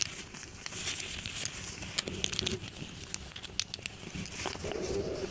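Crinkling and crackling handled close to the microphone, scattered with many small sharp clicks and taps.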